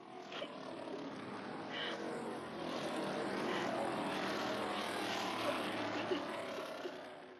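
Steady droning, rushing sound effect that fades in at the start and fades out near the end.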